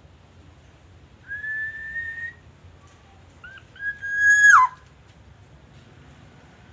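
Black-naped oriole giving clear, fluty whistled calls. A slightly rising note is held for about a second, then come two short notes and a louder whistle that drops sharply in pitch at its end.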